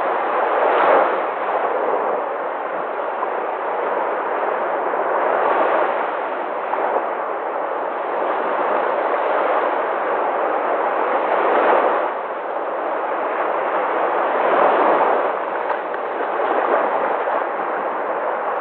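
Sea surf: a continuous rush of waves washing, swelling into louder surges as waves break about a second in, around twelve seconds in and again near fifteen seconds.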